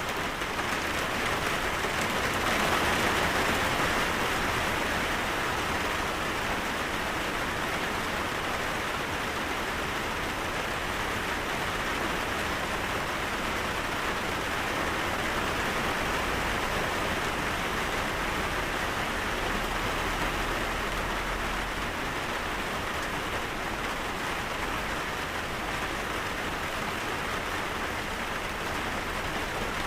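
Steady rain falling, an even hiss of many drops that swells a little a few seconds in.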